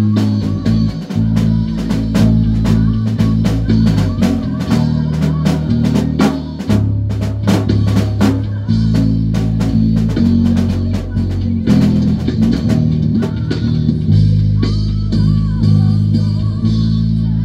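A live band playing: drum kit hits over a loud, stepping bass line, with guitar.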